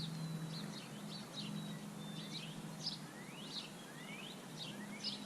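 Songbirds chirping and calling, with several quick rising whistled calls and thin held whistles, over a steady low hum.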